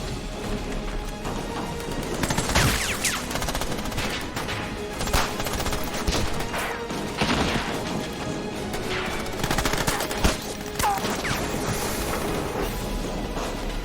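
Movie battle soundtrack: repeated gunshots and volleys of rifle and machine-gun fire over background music.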